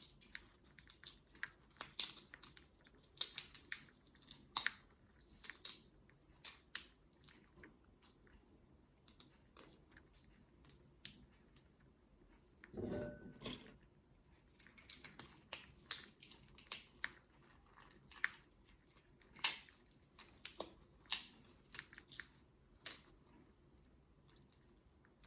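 Green cheek conure crunching a walnut shell in its beak: irregular, sharp cracks and crunches, a few each second.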